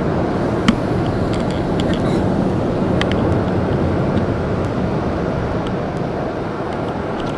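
Automatic car wash air dryer blowers running, a steady rush of air heard from inside the car that sounds like a plane, easing slightly near the end.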